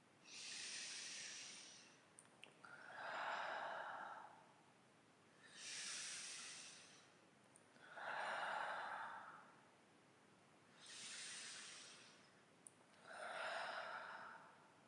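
A person breathing slowly and deeply, close up: three full breaths in and out, each half a swelling rush of air lasting about two seconds.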